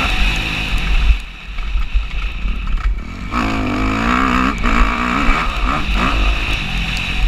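Motocross bike engine revving up and down under race throttle. The throttle drops off about a second in and opens up again around three seconds in, over a constant low rumble of wind on the microphone.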